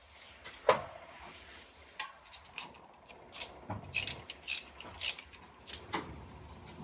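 Scattered sharp metallic clicks and clinks of hand tools and small parts being handled while working on an engine: a loud click about a second in, then a quick run of several more near the middle and later.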